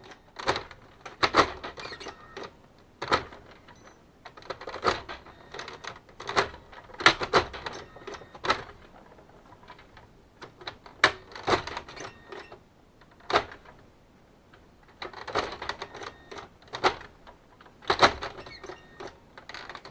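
The automatic document feeder lid of a Kyocera M2040DN printer being opened and shut again and again: plastic clicks and knocks come in clusters every two seconds or so, with the faint squeak the feeder is known for at opening and closing.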